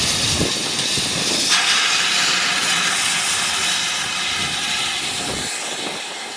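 Steam locomotive venting steam: a steady, loud hiss that suddenly gets stronger about a second and a half in.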